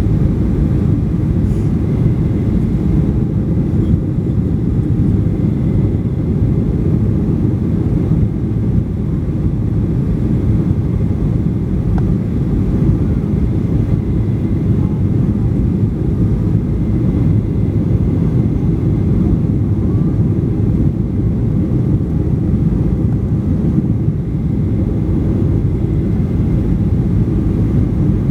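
Steady low rushing rumble of a Boeing 737-800 in flight, its engines and airflow heard from inside the cabin, with a faint steady whine above it.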